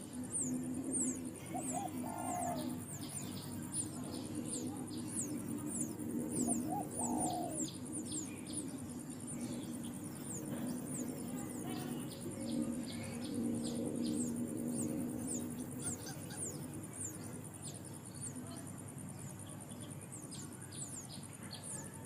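Insects chirping in quick, repeated high falling notes, with occasional short bird calls and a low steady hum that fades out about two-thirds of the way through.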